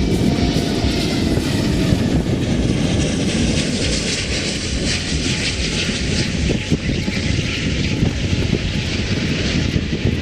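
Jet engines of an Airbus A380-842 airliner arriving, a steady rumble with a hiss above it. A faint whine falls away in the first couple of seconds.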